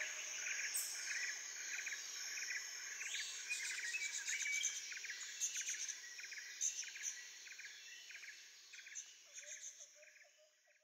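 Outdoor chorus of insects and birds: rhythmic, repeated chirping that fades away over the last few seconds.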